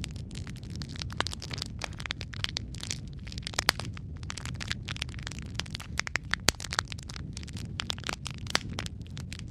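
Wood fire crackling in a fireplace: frequent irregular sharp snaps and pops over a low, steady rumble of the flames.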